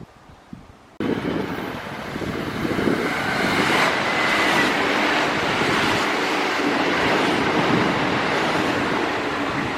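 A train running past with a steady rush of wheel and rail noise that starts abruptly about a second in and stays loud.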